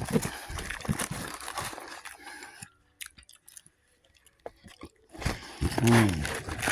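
Crunchy bites and chewing of food close to the microphone for a couple of seconds, then a pause. More chewing and a short hummed voice follow near the end.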